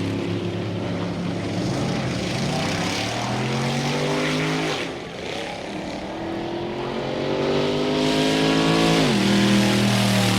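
Drag-racing car engine accelerating, its pitch climbing in two long rising sweeps with a break about halfway, then dropping sharply near the end and holding steady.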